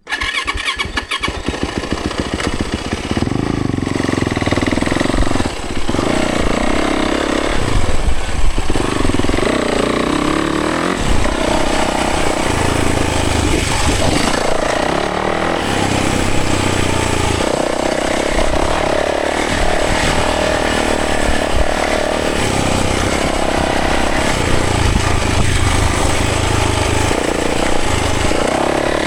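Yamaha 450 dirt bike's single-cylinder four-stroke engine running under way, the revs rising and falling as the throttle is worked.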